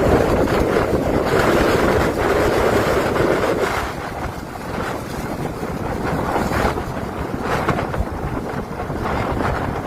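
Strong tornado winds buffeting the microphone: a loud, continuous rumble with hissing gusts. It eases slightly about four seconds in, then surges in short gusts.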